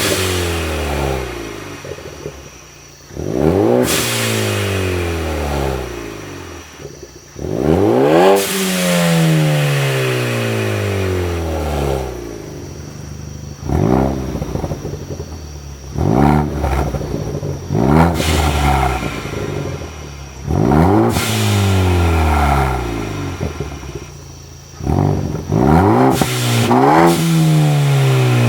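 Ford Focus ST engine through an aftermarket exhaust, revved repeatedly: about eight or nine sharp blips, each rising quickly and then falling slowly back toward idle.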